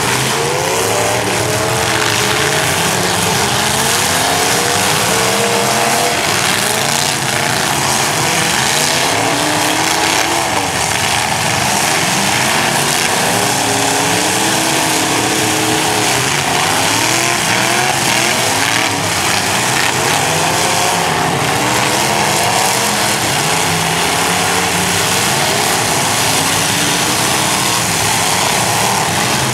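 Several demolition derby cars' engines revving up and down at once, their pitches rising and falling over one another in a loud, continuous din as the cars drive and ram each other.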